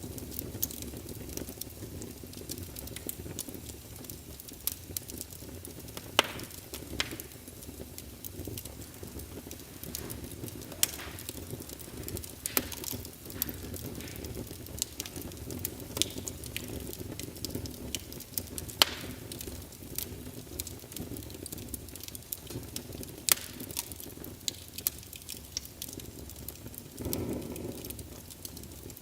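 Small fire in a fireplace crackling, with a steady low rumble and irregular sharp pops, a few of them louder than the rest.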